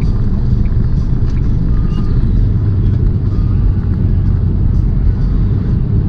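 Steady low engine and road rumble heard inside the cab of a moving semi tractor-trailer.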